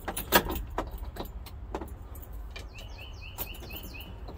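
Keys jangling and a string of sharp clicks from a 1983 Mack truck's key and switches as it is readied for starting. A quick run of short, high chirps comes in the last second and a half.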